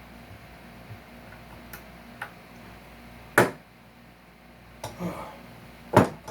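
A few sharp, separate clicks and taps from hand tools working staples and nails out of salvaged wood, the loudest about halfway through and another near the end.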